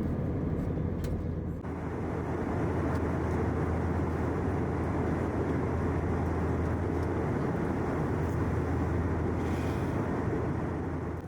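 Steady airliner cabin noise from an Airbus A321: an even, continuous rumble, heaviest in the low end, with a slight change in tone about a second and a half in.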